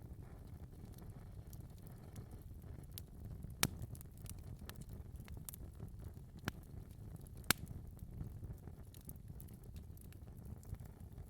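Wood fire crackling in a fireplace: a low, steady sound of flames under frequent small ticks, with three sharp pops, the loudest about two-thirds of the way through.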